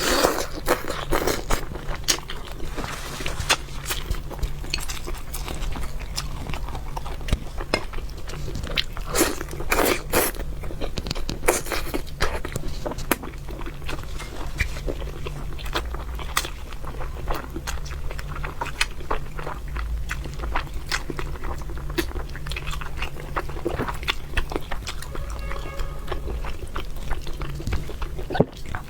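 Close-miked eating sounds: a person biting and chewing red-braised fish, with many short crunches and wet mouth clicks throughout.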